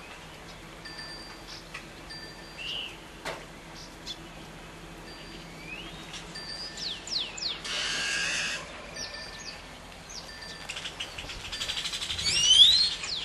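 Birds chirping and calling, with short high whistled notes that slide down in pitch. A rushing hiss lasts about a second some eight seconds in, and a quick flurry of rising and falling calls near the end is the loudest part.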